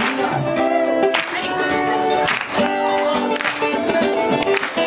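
Live worship music: a band with guitar playing a song with long held notes over a strong beat that hits about once a second.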